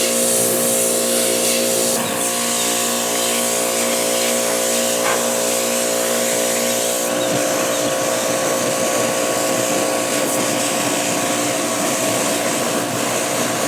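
Pressure washer running steadily: a motor hum under the hiss of the water spray, with the sound shifting about seven seconds in.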